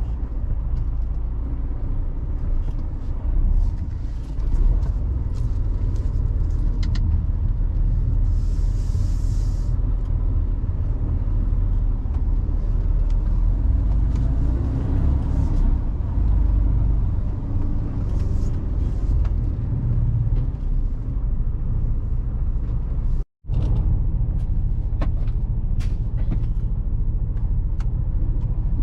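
Mercedes-Benz Actros truck driving, heard from the cab: a steady low engine and road rumble. A brief hiss comes about eight seconds in, and the sound cuts out for a split second a little before the end.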